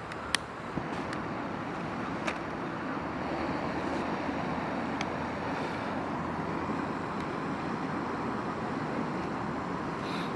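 Small wood fire burning with a steady rushing noise and a few sharp crackling pops.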